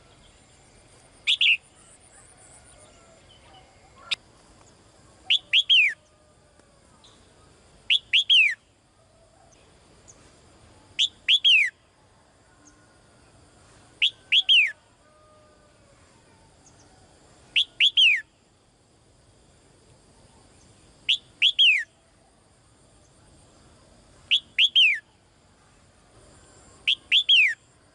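Female songbird calling to a male: a short call of two or three quick, downward-sweeping whistled notes, repeated at a steady pace about every three seconds, nine times.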